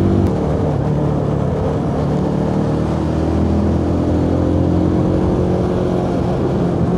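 Benelli TRK 251's single-cylinder engine running at a steady cruising speed, under a steady rush of wind and road noise.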